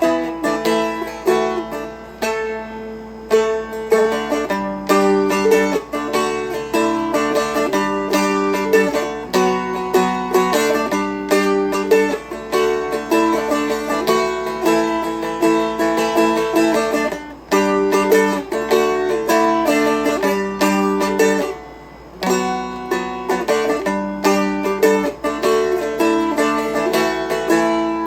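Seagull Merlin M4, a small four-string fretted strumstick, flatpicked in a quick melody of bright, ringing notes, with two brief breaks in the second half.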